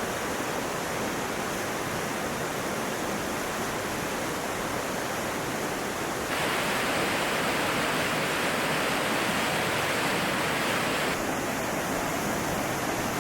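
Steady rush of fast-flowing water, a river or cascade. It grows louder about six seconds in and drops back near the end.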